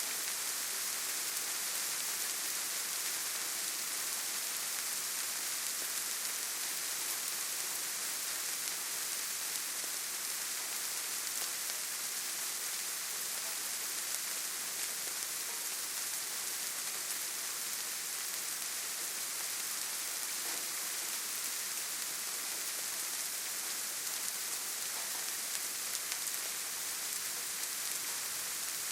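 Steady rain falling on leaves and forest ground, an even hiss with fine patter of drops.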